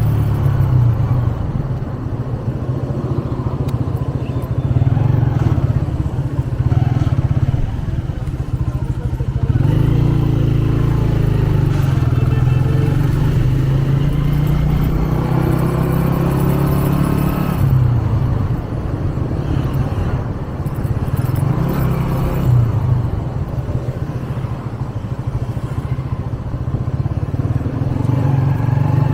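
Motorcycle engine running under way, its pitch rising and falling with the throttle, along with the hiss of road traffic.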